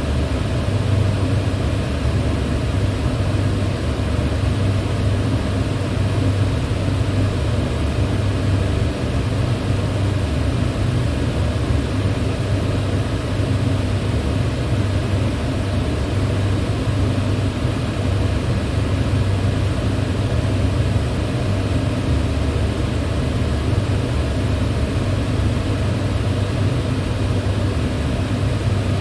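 Electric fan running steadily: an even rush of air over a low hum, unchanging throughout.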